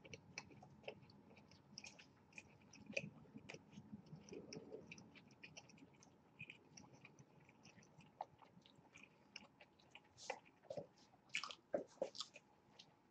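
Faint close-up chewing of burgers, with soft wet mouth clicks and smacks. A few louder smacks come near the end.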